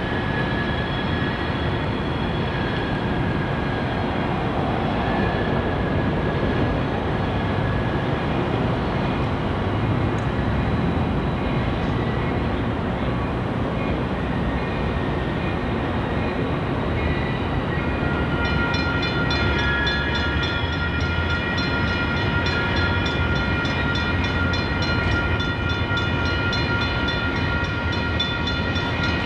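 Steady rumble of an unseen train running. About eighteen seconds in, a high whine of several steady tones with a fine even pulse joins it.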